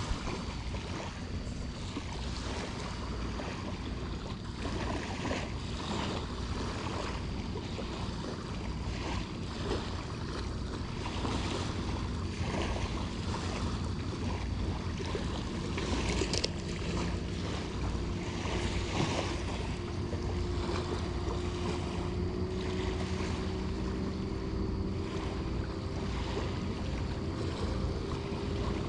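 Wind buffeting the microphone over surf washing on the beach. About halfway through, a faint steady low hum comes in and holds.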